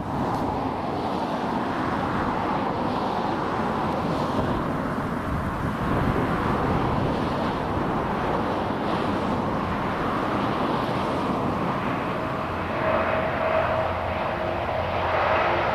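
A train running past: a steady rumble and rush of wheels on rail, with a humming tone coming in near the end.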